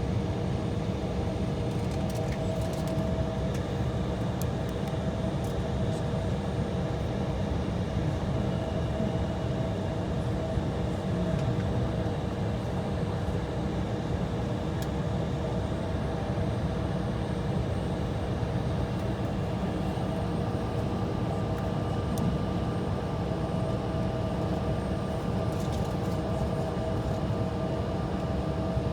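Steady cabin noise inside an Embraer E175 airliner idling on the ground: a constant low rumble with a couple of steady whining tones above it, and a higher tone joining about two-thirds of the way through.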